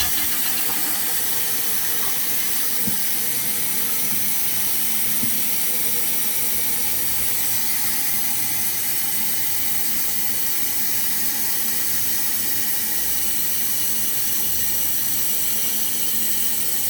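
Toilet running: a steady rush of water into the tank with no let-up. The flapper is not seating because its chain has rusted through, so the tank keeps filling.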